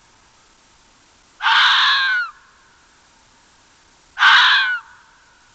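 A harsh animal call, twice, each lasting under a second, about three seconds apart.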